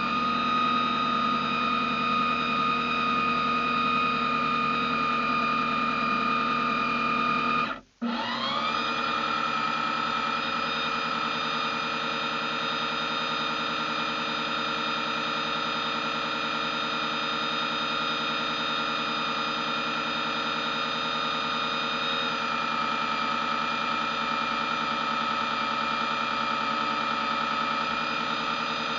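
RC boat motor running with a steady high whine; a little under 8 seconds in it cuts out briefly, then spins back up with a quick rise in pitch and runs steady again.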